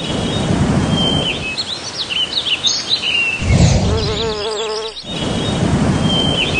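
Forest ambience: birds chirping over a steady hiss. A buzzing insect's wavering drone comes in about halfway through and lasts a second or two.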